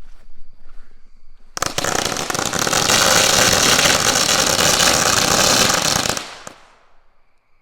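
A bunched pack of firecrackers going off in a rapid, unbroken string of cracks for about four and a half seconds, starting about a second and a half in, with one last bang just after the string ends.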